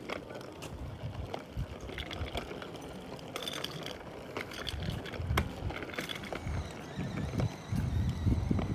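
A child's bicycle rolling after being pushed off, with an uneven low rumble and scattered clicks and knocks that grow louder near the end.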